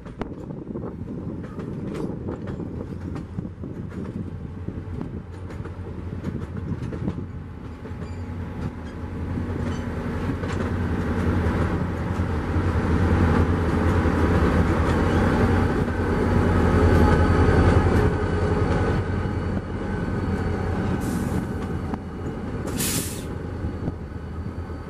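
Passenger train passing, its wheels clicking over the rail joints as the coaches roll by. Then a diesel locomotive goes past with a steady engine hum that swells and fades away. Two short hisses come near the end.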